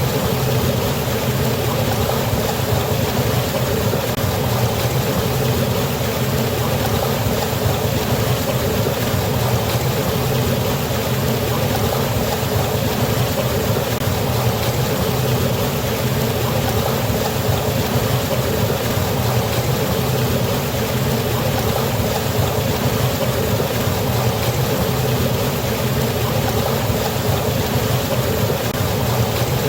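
Waterfall: rushing water pouring steadily and without change.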